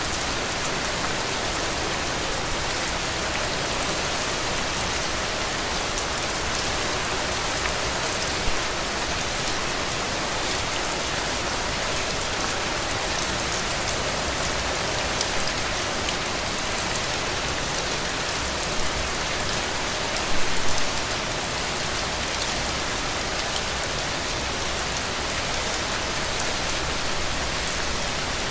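Heavy rain falling steadily, a dense even hiss of drops. A few brief louder spatters stand out, the biggest about twenty seconds in.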